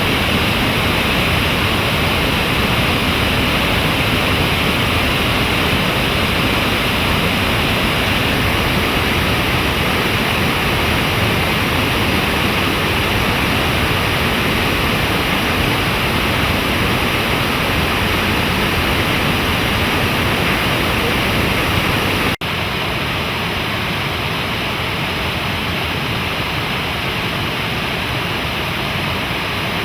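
Rushing water of a snowmelt stream or falls, a steady loud rush. About three-quarters of the way through it cuts abruptly to a slightly quieter stretch of rushing water.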